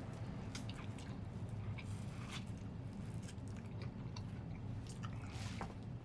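A person chewing and biting into Cajun-sauced seafood-boil food, with irregular wet mouth clicks.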